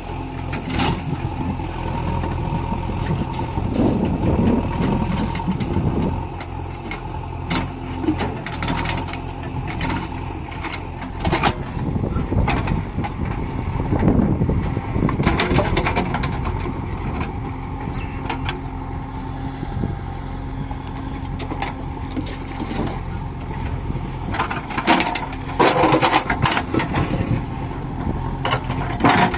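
A JCB backhoe loader's diesel engine runs steadily, rising and falling in level, with repeated short knocks and clatter through it.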